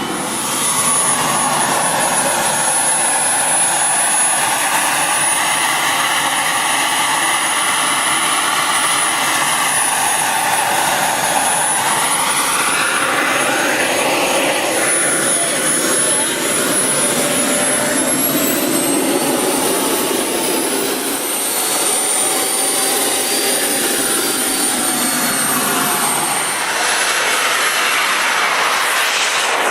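Radio-controlled model F-16 jet flying, with a loud, steady high whine whose pitch glides up and down as it passes by.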